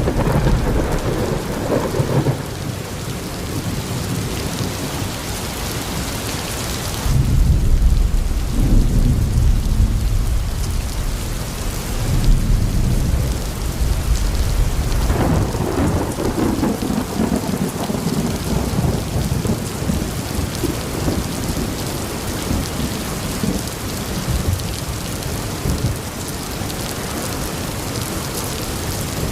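Steady rain falling, with long low rolls of thunder: the loudest rumble begins about seven seconds in and lasts a few seconds, with further rolls around twelve and fifteen seconds.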